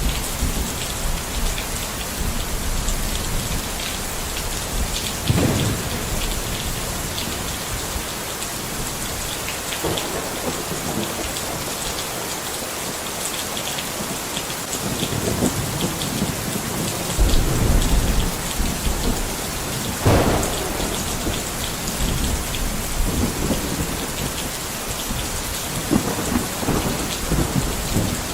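Steady rain falling. Low rumbles well up several times, the longest and loudest a little past halfway.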